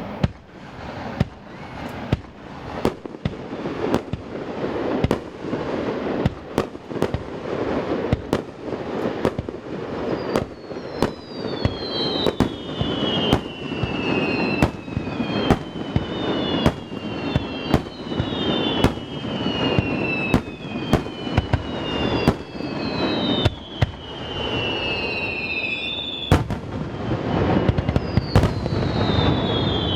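A rapid barrage of fireworks: aerial shells bursting in quick succession, about one to two sharp bangs a second over a continuous rumble. From about a third of the way in, many overlapping whistles that fall in pitch are heard.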